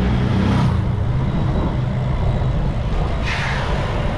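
Wind buffeting a GoPro microphone on a moving bicycle, a steady rumble with road traffic mixed in. A brief hiss comes about three seconds in.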